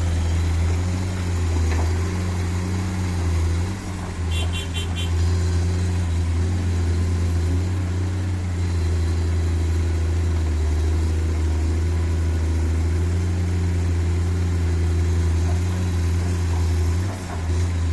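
Dump truck engine running steadily with a low, even hum. About four seconds in there is a brief, rapid, high-pitched chirping.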